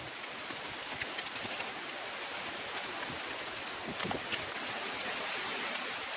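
Heavy rain falling through forest: a steady hiss with many separate drop hits scattered through it, one a little louder about four seconds in.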